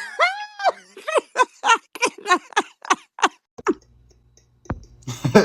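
High-pitched laughter: a rising-and-falling shriek followed by a quick run of falling 'ha' bursts, about four a second, that stops after about three and a half seconds.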